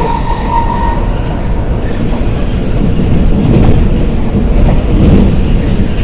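Commuter train's VVVF traction drive whining on a steady tone that stops about a second in, then the train running with rumbling wheel and rail noise that grows a little louder midway.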